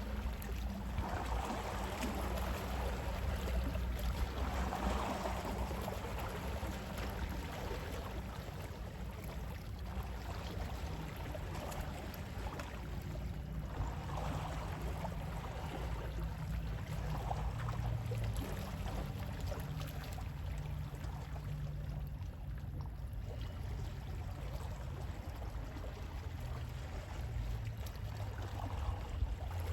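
Gentle sea waves washing in, soft swells of surf rising and falling every few seconds over a steady low rumble.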